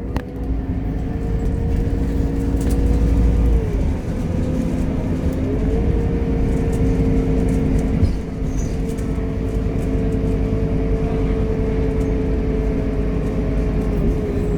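Scania K230UB city bus under way, heard from inside: a steady low drone from the diesel engine and drivetrain with a whining tone. The whine fades out about four seconds in, returns about a second and a half later, and then holds steady.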